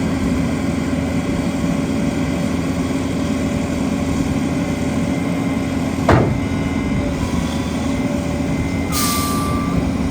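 Gradall XL4100 II wheel excavator's diesel engine running steadily, with a single sharp clunk about six seconds in and a short hiss near the end.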